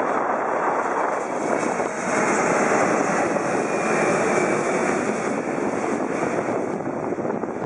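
Jet airliner flying low overhead, a loud, steady rush of engine noise that swells through the middle and eases slightly toward the end.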